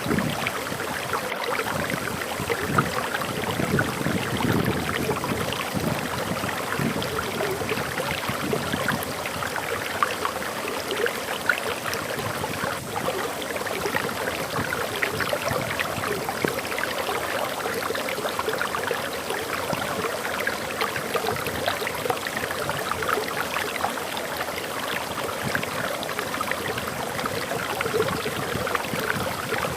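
Waterfall flowing steadily: an even rush of splashing water.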